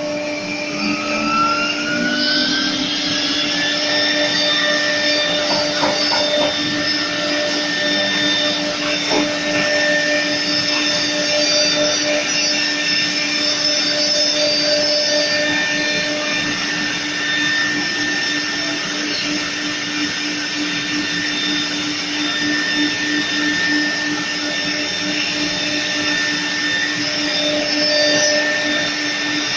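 CNC router running, its spindle giving a high whine that rises over the first few seconds and then holds steady over a constant hum and a rushing noise.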